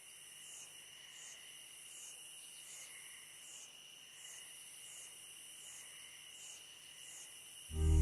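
Insects chirping in a steady night-style chorus: a high pulse repeating about every 0.7 s over a constant high buzz. Music comes in at the very end.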